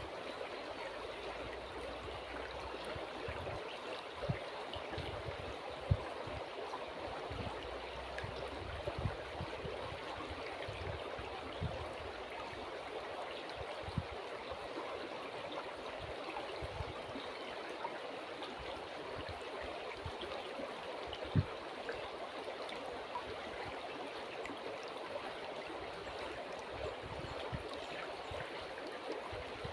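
River water flowing in a steady, even rush, with a few brief low thumps.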